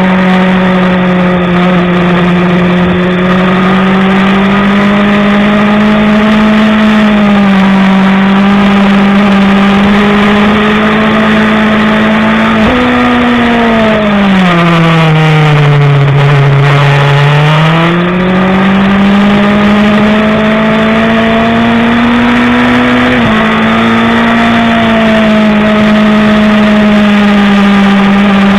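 BMW S1000RR inline-four engine running hard at racing speed, its note unbroken throughout. About halfway through the revs fall steadily for a few seconds and then climb back. There are smaller sudden steps in pitch near a quarter and four-fifths of the way through.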